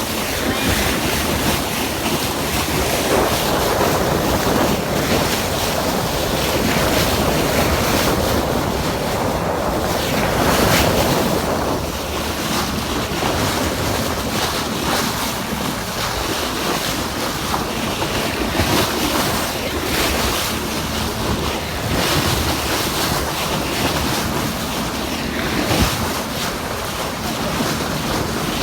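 Loud, steady rush of wind and surf, swelling and easing every few seconds, with wind buffeting the microphone.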